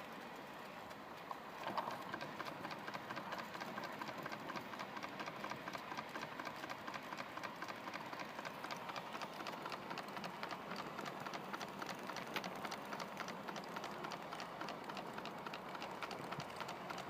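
Model steam engine, a D16 slide-valve engine fed by a Mamod SE3 boiler, running with a rapid, even exhaust beat that picks up about two seconds in. The burner is on thinners rather than meths, which the owner says holds it below its full speed.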